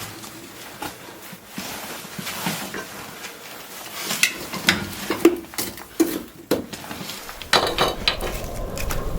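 Clinks and knocks of kitchenware being handled: scattered light strikes, a few sharp ones around the middle and a short cluster near the end.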